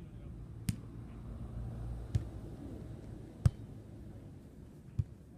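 A volleyball being struck four times, sharp hits about a second and a half apart as in a rally, over a steady low rumble.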